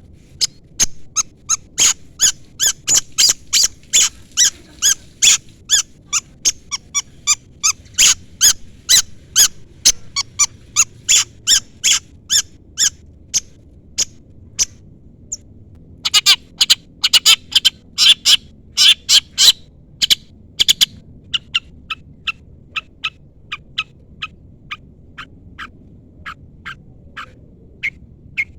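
Long-tailed shrike giving rapid series of short, sharp, harsh calls, about three or four a second, with a pause of about two seconds midway before another dense burst, the calls then growing sparser and quieter near the end. These are the chirps used to call out a rival shrike.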